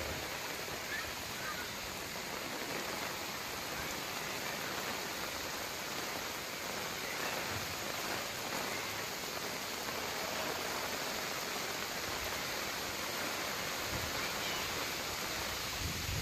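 Heavy rain pouring onto a flooded street, a steady hiss of drops striking standing water.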